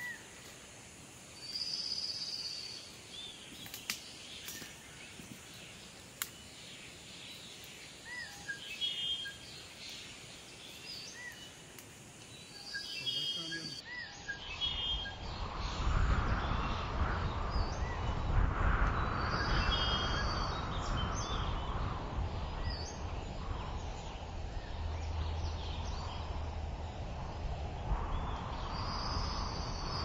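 Wild birds calling now and then, with short high repeated calls. About halfway through, a louder steady rushing noise comes in under the birdsong.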